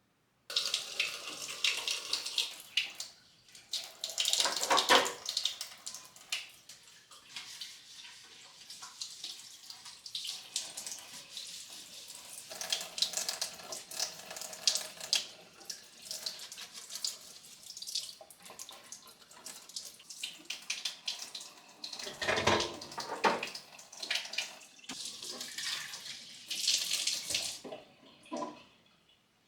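Water running from a kitchen tap into a sink, splashing unevenly, with a couple of louder knocks.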